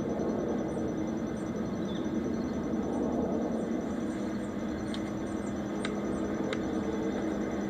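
Steady rumble of a Boeing 747-8's jet engines at takeoff power, mixed with wind buffeting the microphone.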